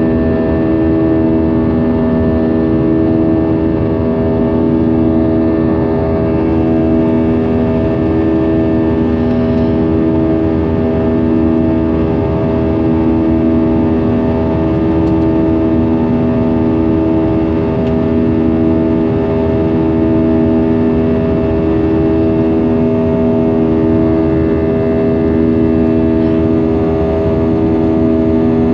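Airbus A320's jet engines heard from inside the cabin: a loud, steady drone made of several held tones over rushing air noise.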